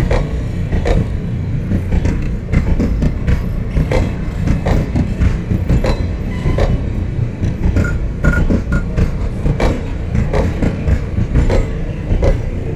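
Passenger train rolling past close by: a steady heavy rumble with irregular sharp clacks of wheels over rail joints, and a few short high squeals about eight seconds in.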